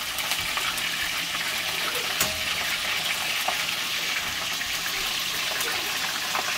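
Fish frying in a wok of hot oil: a steady sizzle, with a sharp click of metal tongs against the wok about two seconds in.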